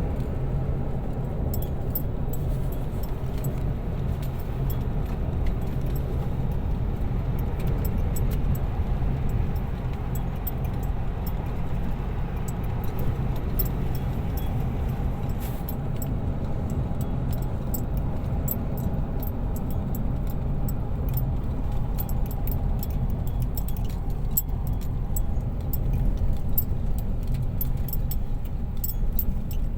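Rain falling: a steady rush with many scattered sharp drip ticks.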